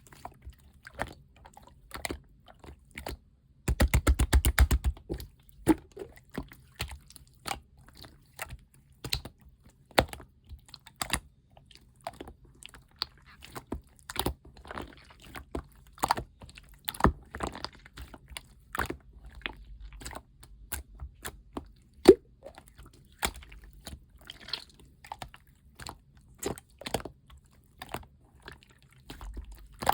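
Teal clear slime being pressed and squished by hand, giving off a steady stream of sharp, wet pops and clicks as air bubbles burst. About four seconds in there is a dense rapid crackle lasting about a second.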